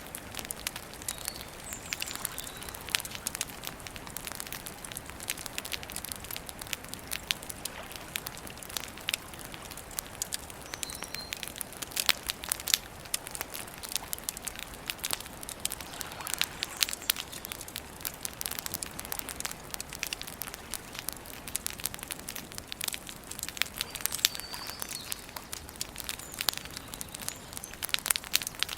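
Campfire crackling, with frequent irregular sharp pops and snaps over a soft steady hiss. Faint bird chirps come in a few times.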